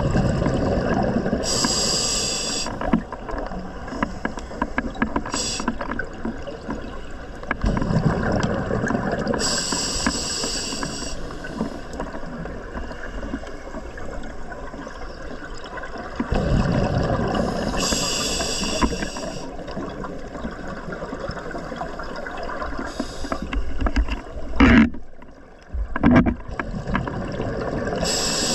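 Scuba diver's regulator breathing underwater: a short hiss on each inhale, then a long bubbling rush of exhaled air, in a slow cycle of about four breaths. Two brief loud knocks come near the end.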